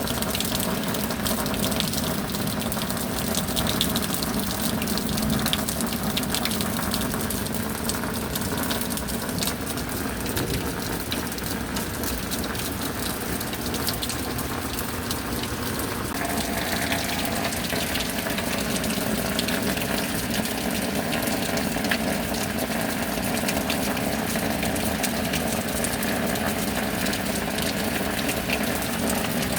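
Steady heavy rain, a continuous wash of pouring water with many fine drop ticks; the texture shifts slightly about halfway through.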